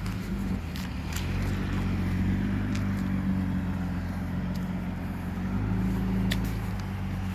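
A motor vehicle's engine running at idle, a steady low hum that swells a little twice, with a few faint sharp ticks over it.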